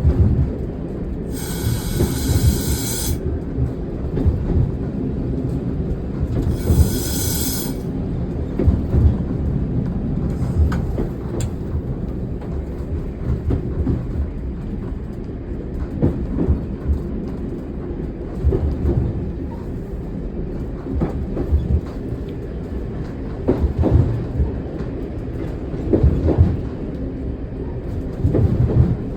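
Single-car diesel railcar running on the line, heard from the cab: a steady low engine and running noise with irregular wheel knocks over the rail joints. Two brief high-pitched sounds come about a second and a half in and again about six seconds in.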